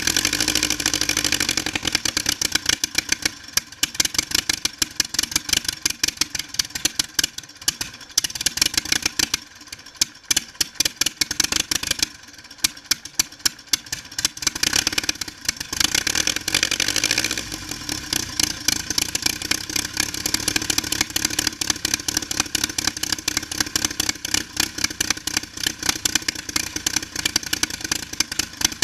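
Aircraft engine running on a test bench, firing in rapid distinct beats, its speed dropping and picking up again several times.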